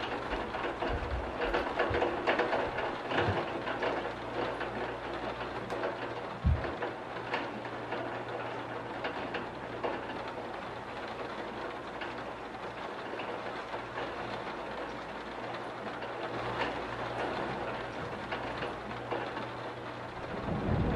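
Steady rain falling against a window, with a low steady hum underneath and a few dull thumps in the first several seconds.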